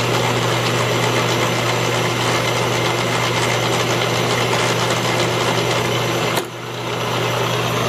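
Rong Fu RF-31N2F mill-drill running with its spindle at high speed: a steady mechanical whir over a constant low hum. About six and a half seconds in, the whir drops suddenly and then builds back up.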